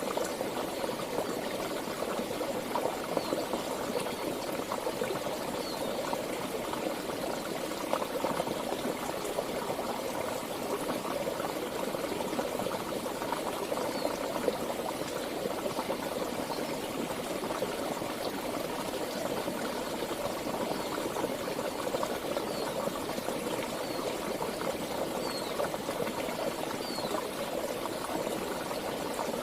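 Flowing water of a stream or river: a steady, even babbling rush that holds unchanged throughout.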